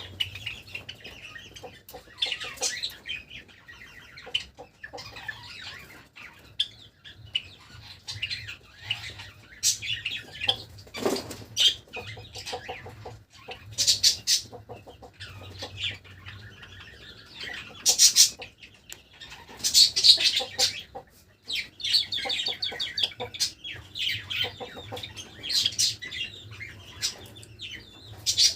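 Java sparrows giving short, sharp chirps and chip notes in irregular bursts, with brief flutters of wings. A faint steady low hum runs underneath.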